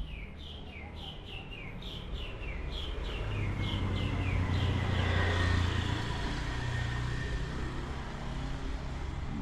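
A bird repeats short falling chirps, about two a second, stopping about four seconds in. Meanwhile a vehicle passes, its low engine sound swelling to its loudest about halfway through and then fading.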